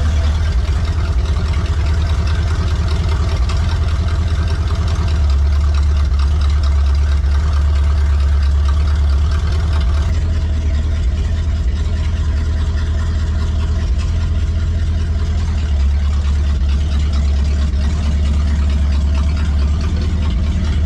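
V8 engine newly swapped into a 1964 Ford Econoline van, idling steadily at a low, even pitch.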